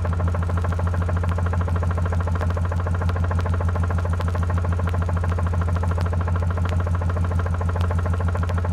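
A machine or motor running steadily, with a deep constant hum and a fast, even pulsing over it.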